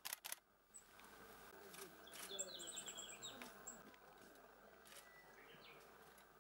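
A few sharp clicks right at the start, then a little past two seconds in, a coal tit gives a rapid run of high, thin, falling chirps lasting about a second. Faint short notes follow near five seconds.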